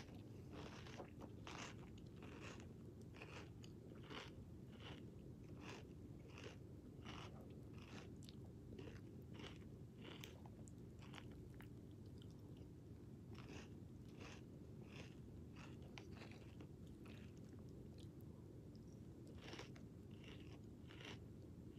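A person chewing crunchy cinnamon toast cereal squares close to the microphone: faint, crisp crunches about two a second, with a couple of short pauses, over a low steady hum.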